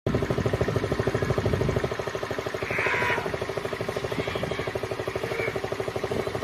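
A small engine idling steadily, with a rapid, even beat of firing strokes.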